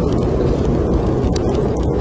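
Snowstorm wind blowing in a low, steady rush, with the sharp crackles of a wood fire burning in a fireplace popping over it a few times.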